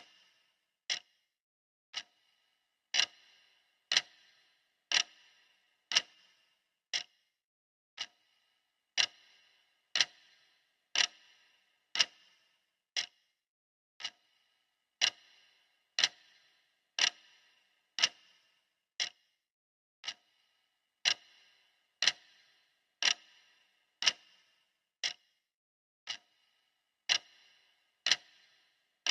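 Clock ticking steadily, one sharp tick per second with a brief ring after each, some ticks louder than others.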